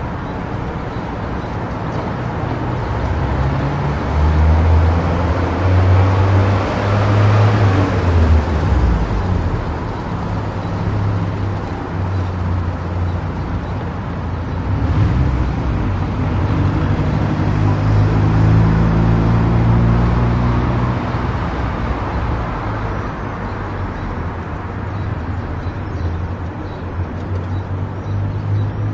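Car driving at highway speed: steady tyre and road noise with a low engine drone that shifts in pitch, growing louder twice for a few seconds.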